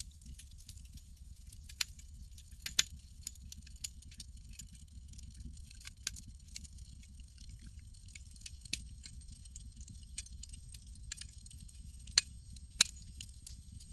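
Campfire crackling: irregular sharp pops and snaps over a low steady rumble, with louder pops about three seconds in and twice near the end.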